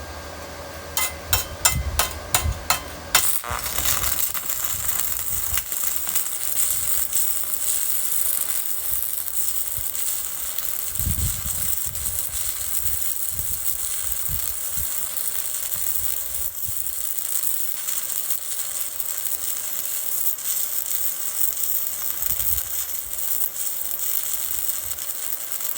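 Stick-welding arc from a small inverter welder burning a 1/8-inch Hobart electrode. A run of sharp cracks as the rod is struck comes first, and the arc catches about three seconds in. After that comes a steady sizzling crackle of a running weld.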